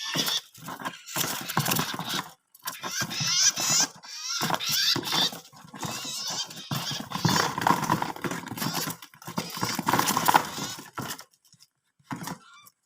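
Small wild-caught birds fluttering and scrabbling inside a cardboard shipping box while it is handled, with dense scraping, rustling and tapping and a few high chirps. The noise stops about 11 seconds in.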